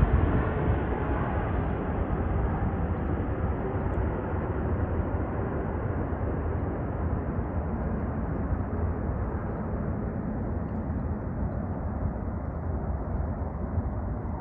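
Boeing 777-300ER's GE90 jet engines, a steady rushing noise that slowly fades and grows duller.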